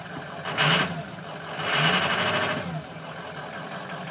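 Ford 6.0 Power Stroke V8 turbo-diesel running unevenly at idle, its engine speed swelling and dropping a few times with two louder surges. This hesitant, vibrating idle is what the owner puts down to a bad injector or two.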